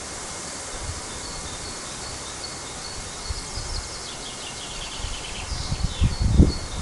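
Outdoor ambience with a bird calling a short, high note over and over, about three times a second, and a brief chattering of higher notes in the middle. Toward the end, low gusty rumbles of wind on the microphone grow louder.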